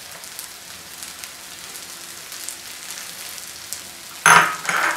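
Chopped onions and cabbage sizzling steadily in hot oil in a wok, with faint crackles. Near the end, two short loud scraping clatters of a utensil against the wok.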